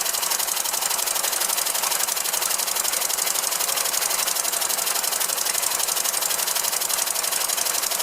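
Small oscillating model engine running steadily on compressed air, giving a rapid, even run of exhaust puffs and ticks.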